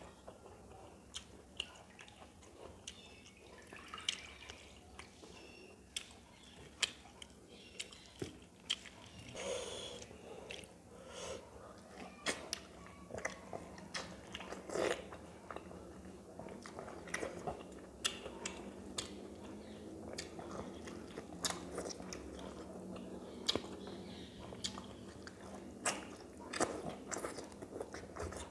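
A person eating cooked leafy greens by hand, chewing wetly with many short, sharp smacks and clicks scattered throughout.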